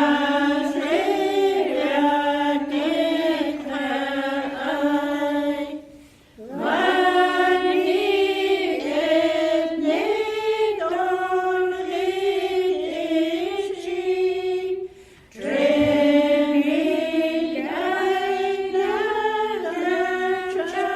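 A group of voices singing together unaccompanied, in slow held notes, in three long phrases separated by brief pauses for breath.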